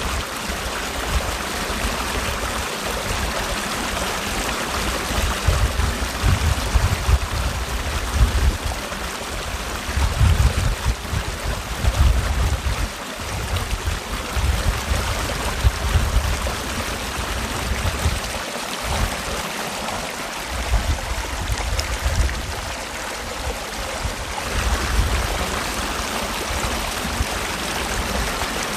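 Mountain valley stream rushing and gurgling over rocks in a steady, full wash of water noise, with uneven low rumbling surges.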